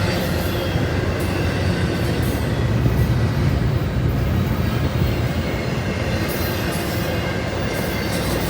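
Train rolling past on the rails, a steady continuous rumble of wheels and cars with no pauses.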